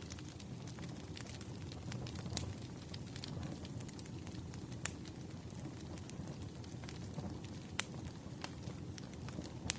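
Crackling campfire: a steady low rumble of burning wood with scattered sharp pops and snaps, the loudest about halfway through and again near the end.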